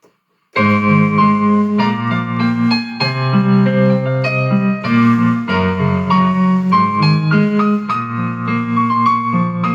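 Electronic keyboard in a piano voice playing a slow tune in sustained chords over a low bass line, starting suddenly about half a second in.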